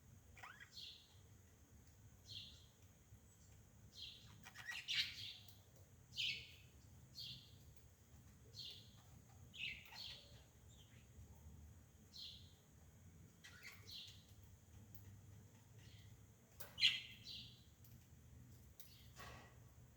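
A bird chirping: short high calls repeated roughly once a second, one louder call near the end, over a faint low hum.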